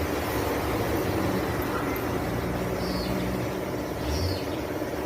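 Steady vehicle noise: an even hum with faint low steady tones and no sudden knocks.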